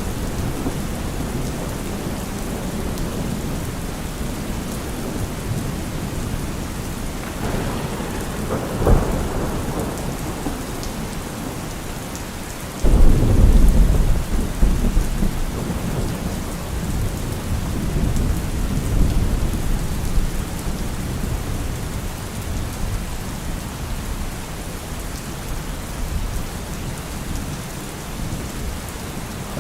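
Heavy rain falling steadily on a car roof, with thunder. A sharp crack comes about nine seconds in. A sudden loud thunderclap follows a few seconds later and rolls into a long low rumble that slowly fades.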